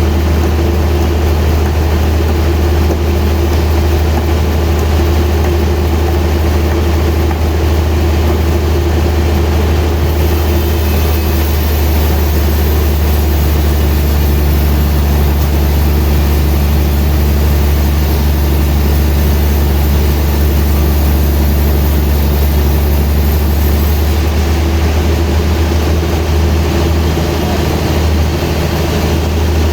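Sawmill machinery running with a loud, steady low drone. A thin high hiss joins about a third of the way in and drops away again about four-fifths of the way through.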